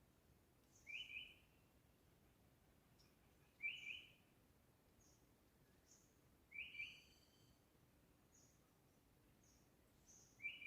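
A bird repeating a short call four times, about every three seconds, with fainter high chirps between the calls.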